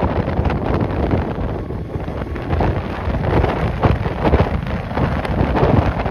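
Strong gusty wind buffeting the microphone: a loud, uneven rumble that swells and dips with the gusts.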